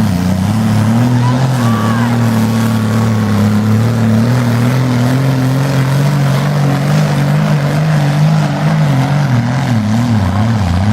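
Tractor engine working hard under heavy load on a pulling sled, its speed wavering up and down as it lugs, with several dips near the end.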